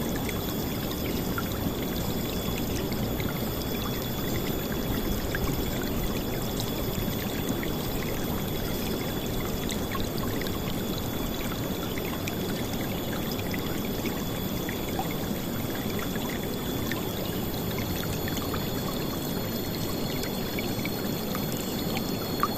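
River water flowing and splashing in a steady, loud rush.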